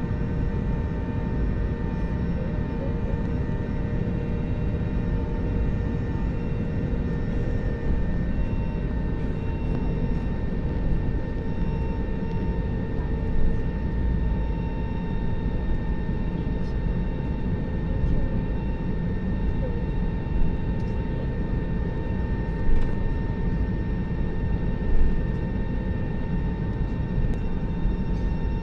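Airliner jet engines running steadily, heard from inside the passenger cabin as a constant deep rush with a few steady whining tones, during the take-off phase.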